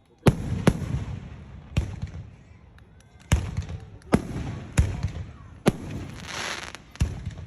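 Aerial fireworks shells bursting: about eight sharp bangs, irregularly spaced from half a second to more than a second apart, each followed by a low rumbling echo, with a hissing crackle a little after the middle.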